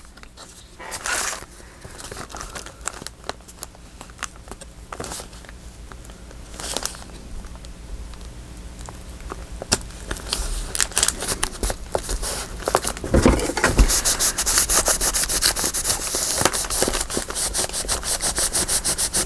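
Paper being handled and crinkled, with scattered rustles and taps, then about halfway through a fast run of short rubbing strokes on paper that grows louder toward the end.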